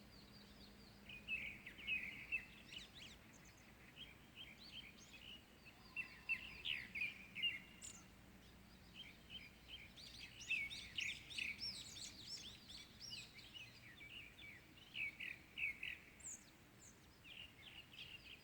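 Several small birds chirping and twittering in a dawn chorus, in quick bursts of short, high calls that come in clusters, busiest about halfway through.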